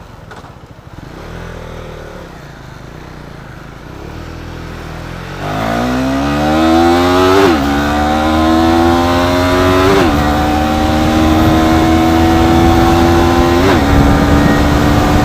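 KTM Duke 390's single-cylinder engine pulling away: a low, quieter running note for the first few seconds, then the revs climb hard as the bike accelerates, with three upshifts, each a short dip in pitch before it rises again.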